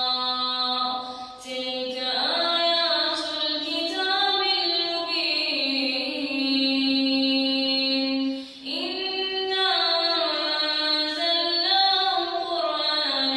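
A girl's voice reciting the Quran in a melodic chant, with long held notes that slide and turn between pitches. She pauses briefly for breath about a second in and again about two-thirds of the way through.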